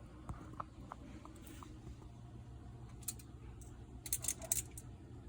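Chicken skewers being handled and set into an air fryer basket: light clicks and clatter, a few small ticks at first, then a cluster of sharper clinks about four seconds in, over a low steady hum.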